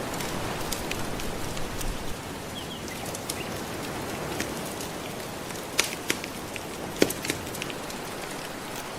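Gentle ocean waves washing steadily, with a wood fire crackling over them in scattered sharp pops, the loudest a little under six and about seven seconds in.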